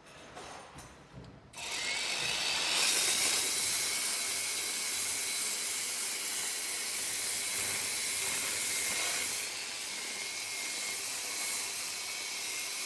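Handheld electric pipe belt sander fitted with a 760 mm abrasive belt, started about a second and a half in and then running steadily, sanding a metal pipe: a loud, even hiss with a steady high whine over it, easing slightly about two-thirds of the way through. Soft handling clicks come before it starts.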